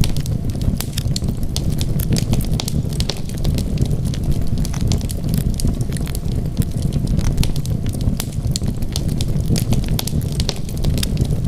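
Wood fire burning in a fireplace: a low, steady rumble of flames with frequent sharp, irregular crackles and pops.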